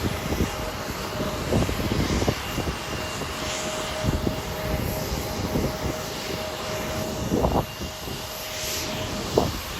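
Jet airliner engines running steadily, with a held whine, under irregular low buffeting.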